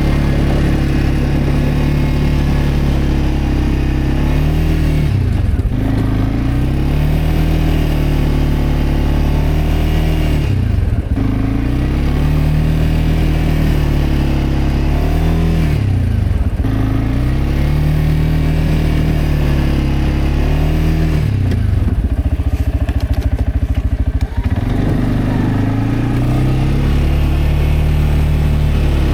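CFMOTO CForce 520L ATV's single-cylinder engine running hard while plowing snow. The revs drop and climb again about every five seconds as it works back and forth, with a longer spell at low revs about two-thirds of the way through before it revs up again.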